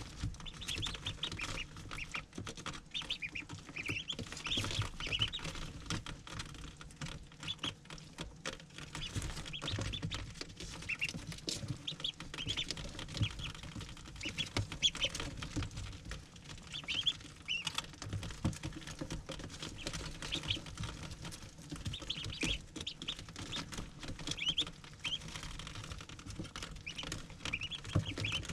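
A brood of ducklings peeping, short high chirps coming in quick runs throughout, mixed with scattered small clicks and taps.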